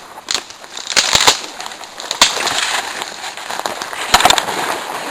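Footsteps pushing through brush, with twigs snapping and leaves crackling underfoot: several sharp snaps, a quick cluster of them about four seconds in.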